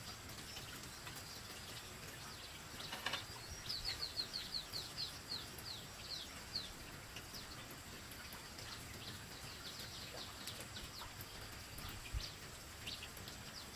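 A small bird calling: a quick run of short, high, falling chirps, about five a second, then a few scattered chirps later on. A faint knock sounds just before the first run.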